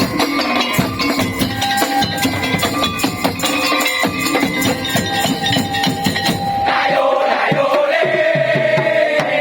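Madurese tong-tong music: an ensemble beating rapidly on wooden slit drums (kentongan) and drums under a steady melody line. About seven seconds in, the low drumming thins out and a held, wavering tone takes over.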